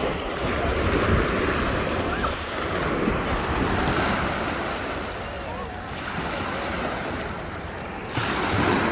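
Wind buffeting the microphone: a steady rushing noise with an uneven low rumble, easing a little in the middle and picking up again near the end.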